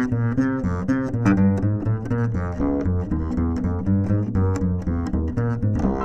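Double bass played pizzicato in a steady line of quick low notes, about three to four a second, each with a sharp attack. It is picked up by a CP-1 contrabass pickup with no EQ, reverb or compression.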